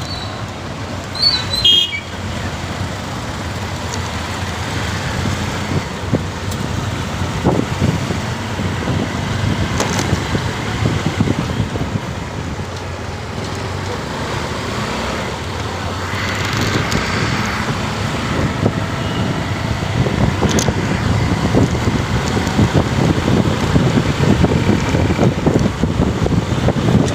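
Steady road and traffic noise heard from a moving motorcycle, with the engine and tyres underneath, growing a little louder in the last third. A brief high-pitched falling tone sounds about a second in.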